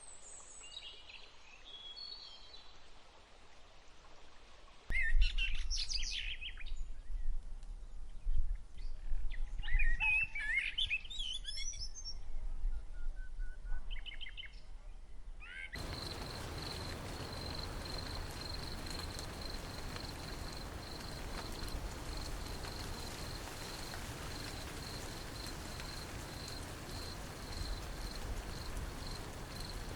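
Birds chirping and singing in short high phrases over a low rumble, then, after an abrupt change about sixteen seconds in, an insect's steady high-pitched trill of rapid, even pulses over a background hiss.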